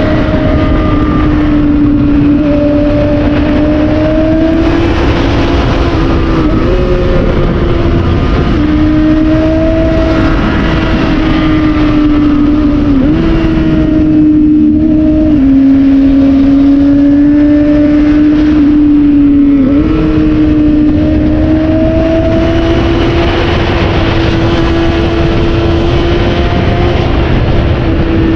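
600 cc inline-four sport-bike engine running at high revs while riding, its pitch held high and steady with a few brief dips, over a steady rush of wind noise.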